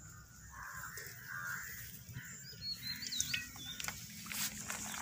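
Faint bird chirps, a few short calls about halfway through, with soft clicks near the end.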